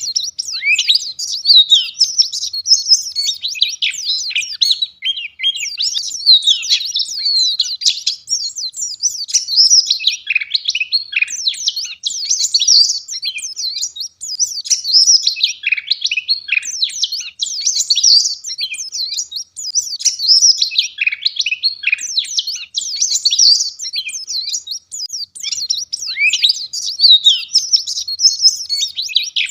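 Wild white-eye (pleci ngalas) singing: a fast, dense, high-pitched twittering song in long runs of chirps and trills with brief pauses.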